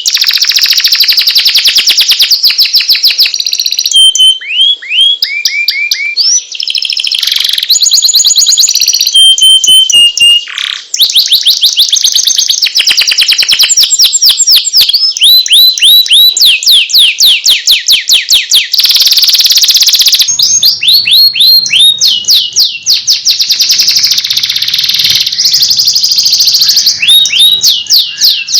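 Domestic canary singing a continuous song of rapid trills of repeated notes, falling whistled sweeps and buzzy rolls, switching to a new phrase every few seconds.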